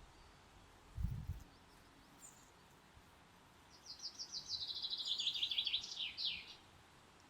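A songbird sings a fast trill of many short notes that slides down in pitch, lasting about three seconds and starting around the middle, with a brief high chirp shortly before it. A short low thump comes about a second in.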